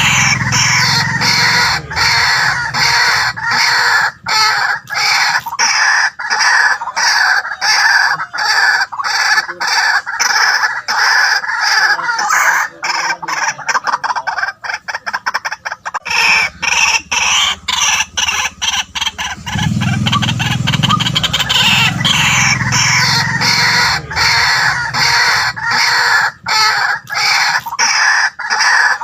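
White-breasted waterhen calling: a loud, unbroken run of short, harsh, repeated notes, a few each second, with brief gaps.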